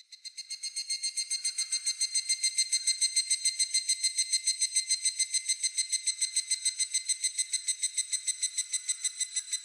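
Higurashi (evening cicada) calling: a clear, whistle-like trill pulsing about eight times a second. It swells in over the first second or so, holds steady, and begins to fade near the end.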